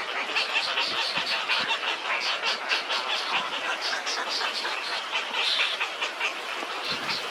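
Birds calling in a rapid, continuous series of short high-pitched notes, about five a second.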